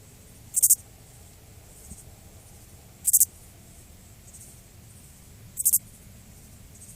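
An insect giving short, high-pitched buzzy chirps, three in all, about two and a half seconds apart, over a faint steady background hiss.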